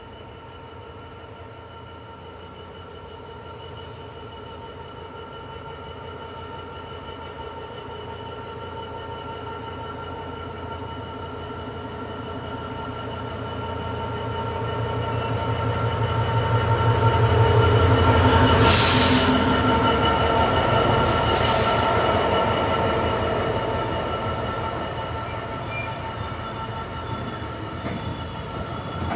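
DB Cargo Class 66 diesel locomotive, with its two-stroke V12 engine, approaches and passes close by hauling a train of tank wagons. It grows louder to a peak with a short rush of noise as the locomotive goes by, then the wagons run past on the rails.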